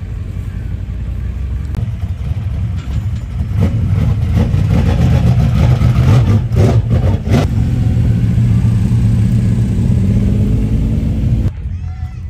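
VL Commodore speedway stock car's engine running loud and low-pitched, growing louder through the middle. Near the end its pitch climbs as it revs up, and then it cuts off abruptly.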